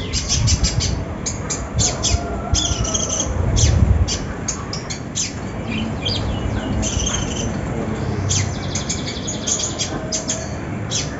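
A konin (kolibri ninja sunbird) singing in a dense run of rapid, high-pitched chirps and short sweeping notes, broken by brief pauses. A low rumble sits underneath, strongest about four seconds in.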